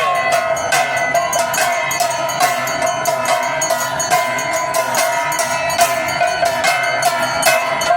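Aarti bells and cymbals clanging in a steady rhythm, about three strokes a second, over a sustained droning tone: the live sound of a Hindu evening aarti.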